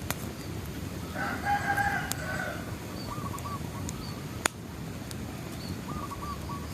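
A rooster crows once, starting about a second in and lasting about a second and a half, over a steady campfire with scattered crackling pops; the sharpest pop comes about four and a half seconds in. Faint short bird chirps come and go in the background.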